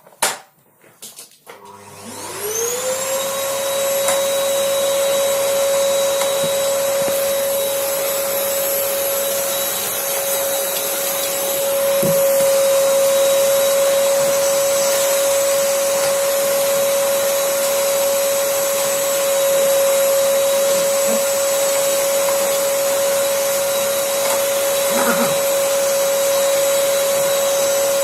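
Vacuum cleaner switched on about two seconds in, its motor whine rising quickly to a steady pitch and then running steadily.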